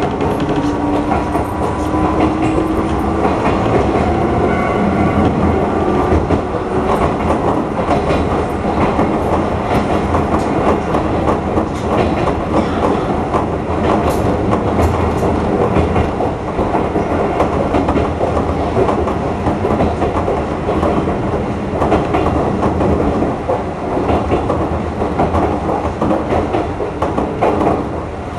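Fukushima Kotsu Iizaka Line electric train running, heard from on board: wheels clattering over the rails continuously, with the traction motors' whine rising slowly over the first few seconds as the train picks up speed after leaving the station.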